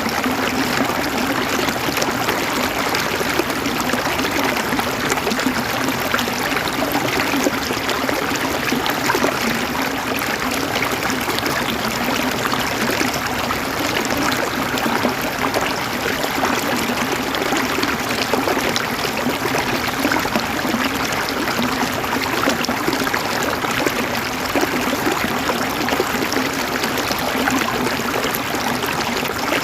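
River water flowing over rocks, a steady babbling and gurgling rush with constant fine splashes.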